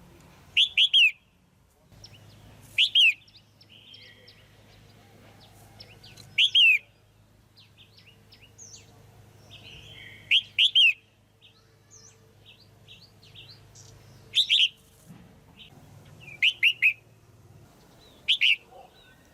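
Female red-whiskered bulbul calling: loud bursts of two or three quick, sweeping notes every two to four seconds, with softer short chirps in between.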